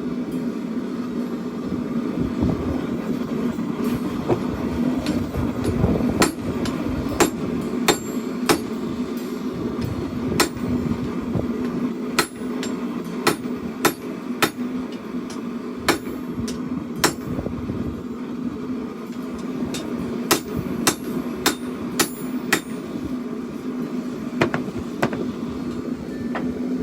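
Hand hammer striking a forged chopper blade on an anvil in irregular single blows, about one or two a second, squaring up a notch in the blade. A steady hum runs underneath throughout.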